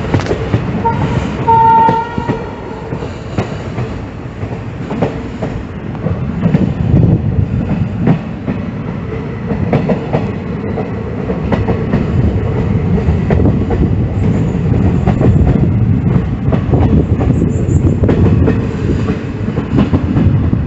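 Passenger train running on the rails: a steady rumble with the wheels clicking over the rail joints. A short horn blast sounds about a second in.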